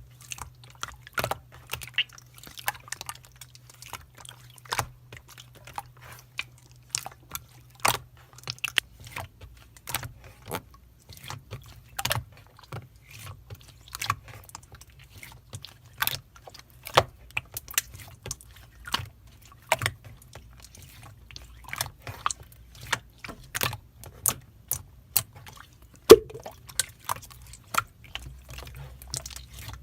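Slime being squeezed and pressed by hand, giving sharp, irregular clicks and pops, one to three a second, with one louder pop near the end.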